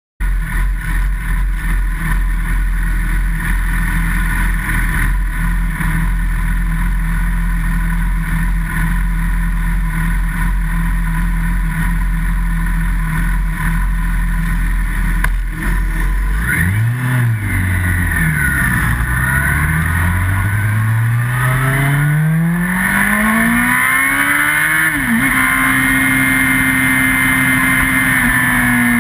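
Yamaha R1's inline-four engine idling steadily, recorded from the bike itself. A little over halfway through it pulls away and revs up, the pitch climbing and dropping back at each upshift, then holding steady before easing off near the end.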